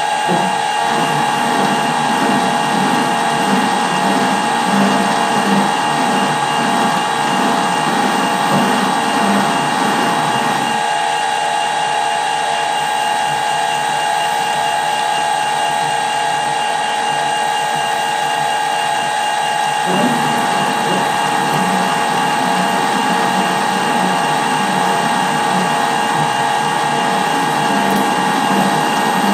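Metal lathe screw-cutting a thread in tough steel, running with a steady gear whine. A rougher, rattling cutting noise sits under the whine for the first ten seconds or so, eases off in the middle, and returns about twenty seconds in.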